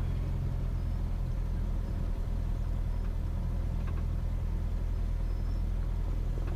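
Cessna 172S's four-cylinder Lycoming IO-360 engine idling as a steady low drone.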